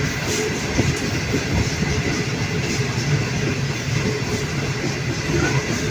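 A moving express passenger train heard from on board: a steady running rumble, with faint wheel clacks over the rails.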